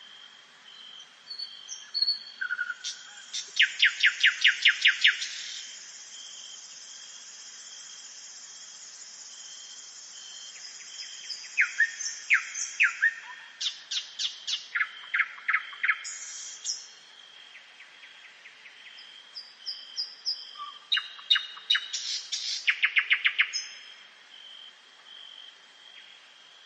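Songbirds singing: three bouts of rapid, loud, high chirping notes, with a thin, continuous high trill between the first two.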